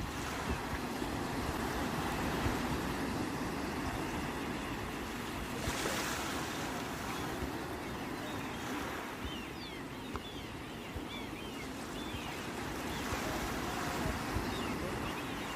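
Sea waves washing onto the shore, swelling and easing, with a stronger surge about six seconds in and another near the end. A few faint short high chirps come in the middle.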